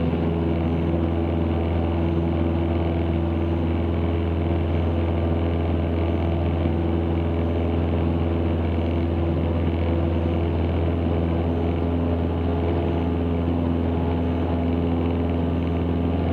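Cessna 162 Skycatcher's four-cylinder Continental O-200 engine and propeller running steadily at full takeoff power, heard from inside the cockpit during the climb-out just after rotation.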